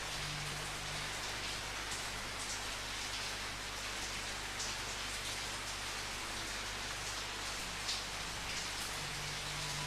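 Steady rainfall with scattered individual drops pattering on a surface.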